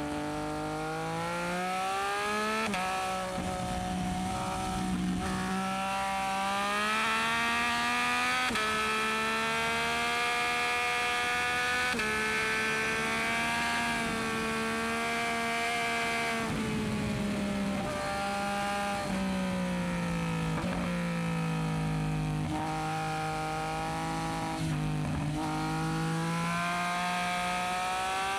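Yamaha MT-09SP's inline-three engine through a Dominator aftermarket exhaust, under way with several gear changes. Its pitch climbs under throttle and drops sharply at each upshift, and it eases off for a few seconds about two-thirds of the way in.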